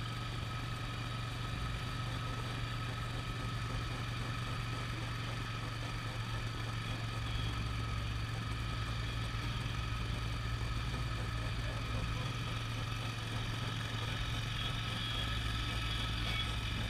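Car engine running steadily at a crawl, a low, even hum whose deepest note shifts a little about a third and two thirds of the way through.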